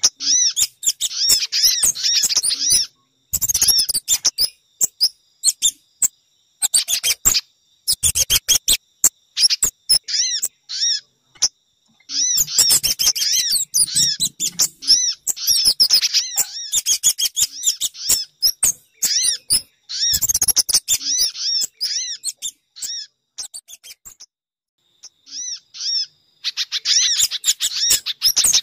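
Bird-lure recording of small songbird calls, a mix of sogon, pijantung (spiderhunter) and kemade calls used to draw wild birds in. It plays as rapid runs of high, sharp chirps in bursts of a few seconds, broken by short silences.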